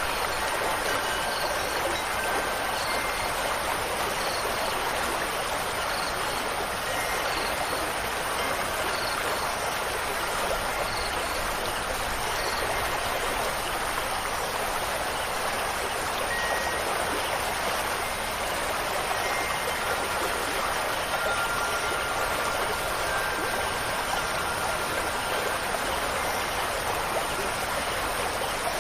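Steady rushing of running water, an even, unbroken wash, with faint, scattered short high notes over it.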